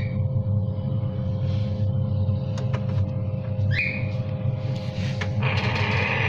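Steady low hum, with two short squawking calls from a young African grey parrot chick, one at the start and one about four seconds in. A few light clicks, and a raspy hissing stretch near the end.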